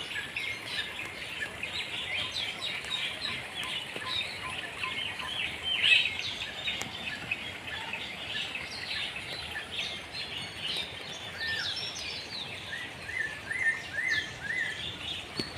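A busy chorus of many birds chirping and calling over one another, with a quick run of short repeated whistled notes near the end.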